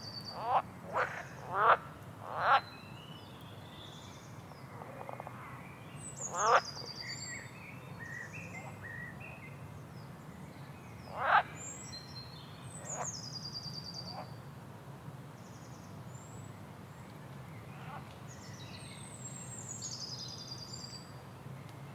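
Frogs croaking in short loud calls, four in quick succession over the first few seconds, then single croaks about six and eleven seconds in. Birds sing high, downward-sweeping trilled phrases every few seconds throughout.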